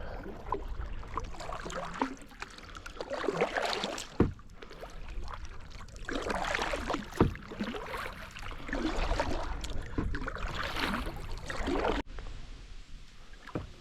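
Kayak paddling on a river: paddle blades splashing and dripping in irregular swells, with two sharp knocks about four and seven seconds in.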